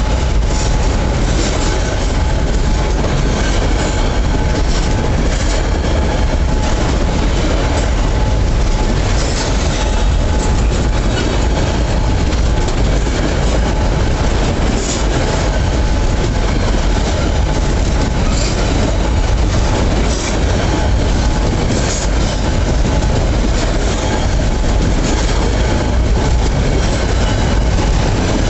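Freight train wagons rolling past at close range, the wheels clicking over the rail joints in a steady, loud rumble.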